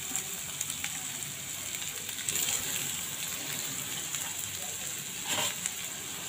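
Raw potato pieces frying in hot mustard oil in a kadai: a steady hissing sizzle with fine crackles, briefly louder about five seconds in.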